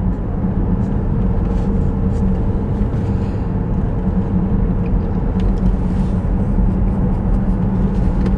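Steady road and tyre rumble inside a moving Tesla's cabin, with a low, even hum and no engine note.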